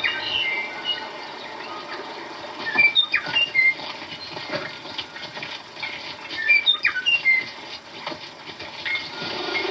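A bird singing: two phrases of short, high chirping notes with quick glides, the same phrase repeated about three seconds apart, over a steady hiss.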